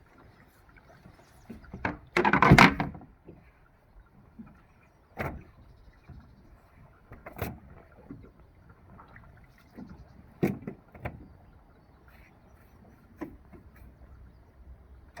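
Irregular knocks and clunks on a small fishing boat, the loudest a longer clatter about two seconds in, then single knocks every few seconds.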